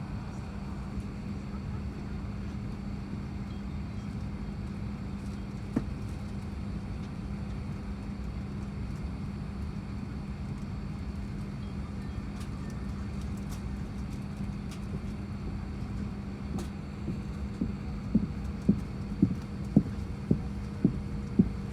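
Steady hum of an Airbus A350-1000 airliner cabin, with a low steady tone. One knock about six seconds in, and near the end a run of about eight soft knocks roughly half a second apart.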